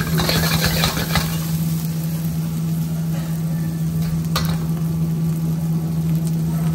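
Chopped onions sizzling in hot oil in a wok. A metal spoon scrapes and stirs them through about the first second, with a single clink about four and a half seconds in, over a steady low hum.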